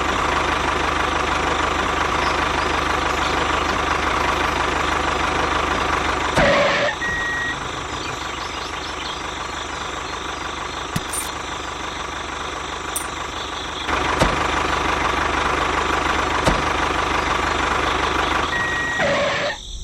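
Small motor of a miniature model vehicle running steadily. About six and a half seconds in it drops to a quieter speed, picks up again around fourteen seconds, and cuts off at the very end. A short high beep sounds twice.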